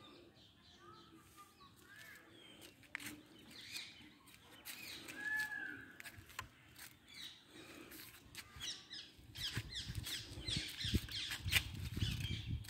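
Small birds chirping on and off, with a rapid run of short chirps in the last few seconds, and a low rumble on the microphone toward the end.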